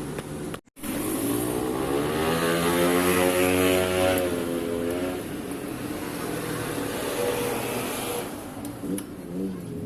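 Small two-stroke engine of a mini ATV, a grass-cutter type motor, running and being revved: after a brief break in the sound just under a second in, it revs up to a peak a few seconds in, drops back, and rises again more gently near the end.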